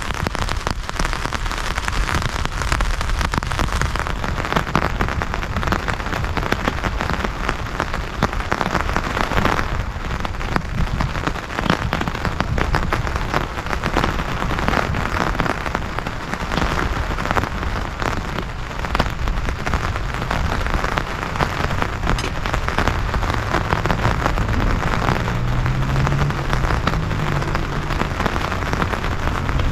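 Heavy rain falling steadily, a dense hiss of drops striking close by.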